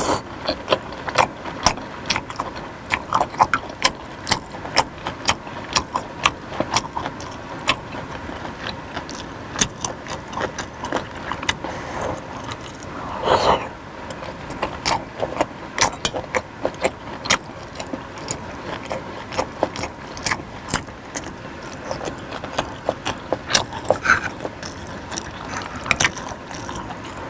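Close-miked eating sounds: chewing with many sharp wet mouth clicks and smacks, a couple or so a second, and a longer, louder noise about halfway through.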